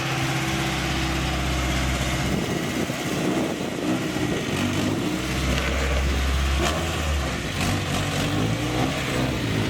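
Car engine running at a high idle, around 2,500 rpm, with a loud exhaust leak in its note; the low rumble swells for a couple of seconds midway.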